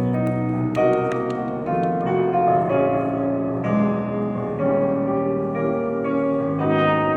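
Live trumpet playing a melody of held notes over piano accompaniment.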